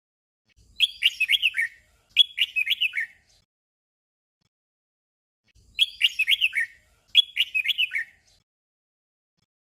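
Red-whiskered bulbul singing a short warbled phrase twice in quick succession. The doubled phrase comes again about five seconds later.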